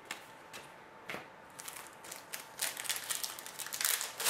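Trading card packs and cards being handled: a few light clicks, then crinkling foil wrapper and cards sliding and flicking, growing denser and louder toward the end.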